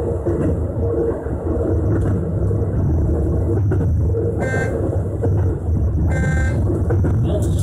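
Keisei 3000-series electric train running, heard from inside the car: a steady low rumble of wheels and traction motors. Two short horn-like toots sound about halfway through and again a couple of seconds later.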